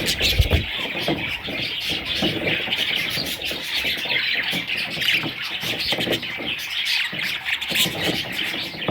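A group of budgerigars chattering and chirping without pause, many calls overlapping. A short low thump comes about half a second in.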